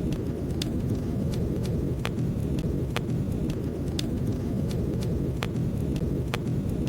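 Wood fire burning in a fireplace: a steady low rush of flames with sharp crackles and pops, roughly one or two a second.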